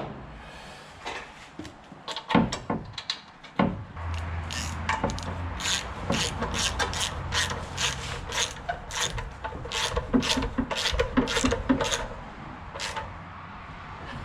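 Threaded handle of a Bobcat quick-attach being screwed into place on its freshly greased thread: a run of short rasping, clicking strokes, about two or three a second, starting about four seconds in, after a few scattered knocks.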